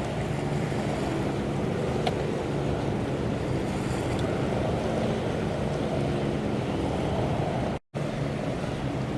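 Strong wind buffeting the microphone over water noise, with a steady low mechanical drone from a container ship's machinery as it manoeuvres to berth. The sound cuts out completely for a split second near the end.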